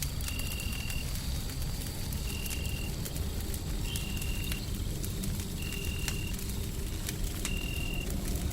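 Wood fire crackling with scattered sharp pops, over a steady low rumble of white noise. A short high steady tone sounds five times, about every two seconds.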